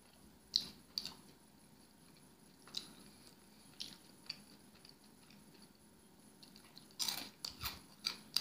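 Close-up chewing of pizza topped with Flamin' Hot Cheetos: scattered sharp mouth clicks and smacks, then a quick run of louder crunching clicks about seven seconds in.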